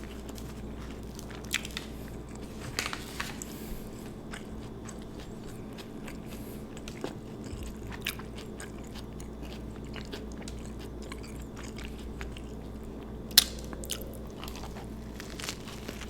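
Close-miked chewing and biting into an Italian sub sandwich: wet mouth sounds with scattered short crunches and clicks, one sharp and much louder about thirteen seconds in, over a steady low hum.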